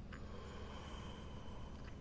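Wood campfire giving two sharp crackles, one near the start and one near the end. Between them a thin, steady high tone is held, over a constant low hum.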